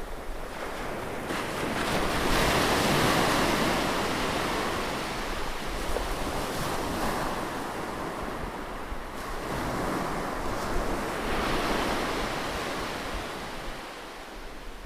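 Ocean surf: waves breaking and washing in, a steady rushing hiss that swells twice, about two seconds in and again around eleven seconds, then eases off.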